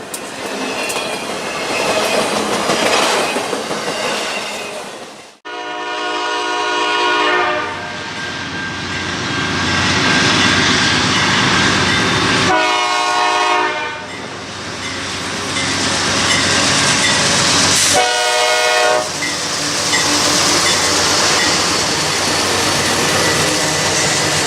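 Train rolling by with steady wheel-on-rail noise, while a diesel locomotive's multi-note air horn sounds three times: a long blast just after five seconds in, then two shorter ones about seven and twelve seconds later. The sound cuts out sharply for an instant just before the first blast.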